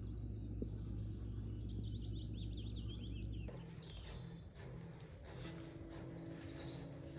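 Outdoor ambience with birds calling: a quick run of repeated chirps over a low steady hum, then, after a cut about three and a half seconds in, a quieter background with a few faint chirps.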